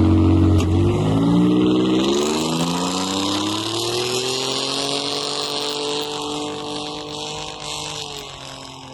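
Car engine revving under throttle: its note climbs slowly over several seconds, holds high, then falls away near the end. A steady hiss runs with it, typical of tyres spinning on snow or ice.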